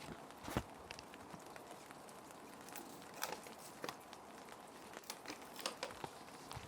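Plastic sheet protectors crinkling and ticking in sharp, scattered crackles as paper sheets are slid into them, over a steady soft hiss of rain.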